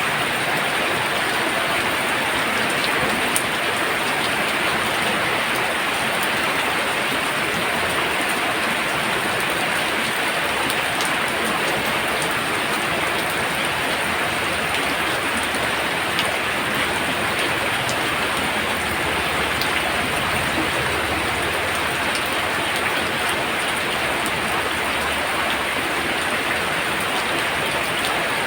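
Heavy rain falling steadily: an even, dense hiss with a few faint drop ticks.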